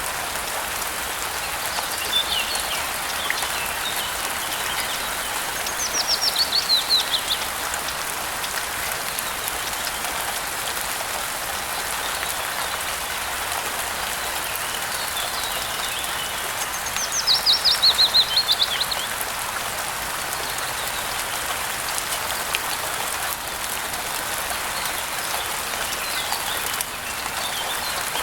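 Steady rain falling, with a songbird singing a quick descending trill twice, about eleven seconds apart, and softer chirps in between.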